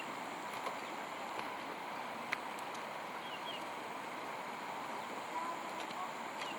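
Steady outdoor background hiss with a faint high steady tone. A sharp click comes about two seconds in, and a couple of short high chirps follow about a second later.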